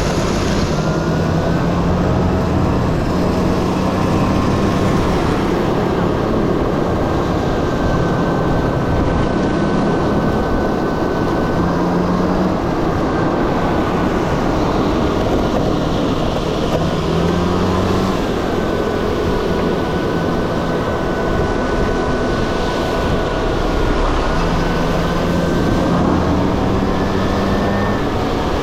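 Two-stroke Honda Dio scooter engine running under way, its pitch rising and falling several times with the throttle. A thin, steady high whine sits above the engine, over a constant rush of noise.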